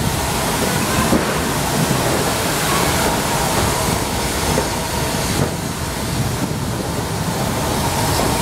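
Heritage railway train at a station platform: a steady rumble and hiss from the train.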